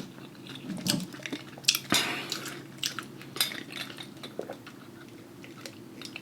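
Scattered clinks and taps of utensils against dishes, a string of separate sharp clicks spaced irregularly and growing sparser toward the end.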